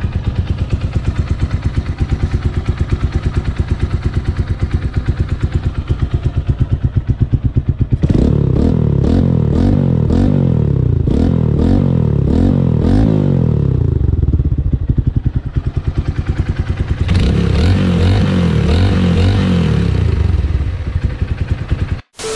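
Motorcycle engine, warmed up on fresh 10W-40 oil with no additive yet, idling steadily, then revved up and down several times about eight seconds in and again later. The sound cuts off suddenly near the end.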